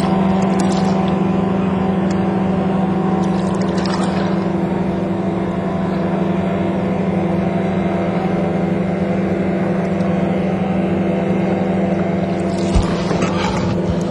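Boat motor running steadily with an even hum, with a few brief knocking or rustling noises and one sharp thump near the end.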